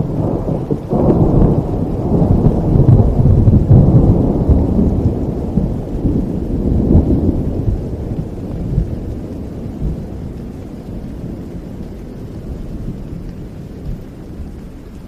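A long roll of thunder over falling rain: the deep rumble builds about a second in, is loudest over the next few seconds, then slowly fades away while the rain goes on.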